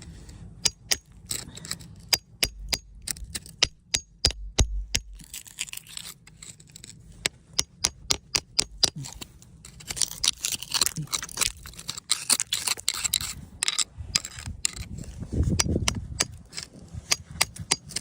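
Hard tools tapping and chipping at rock and crystal in quick, irregular sharp clicks, with stretches of scraping about halfway through.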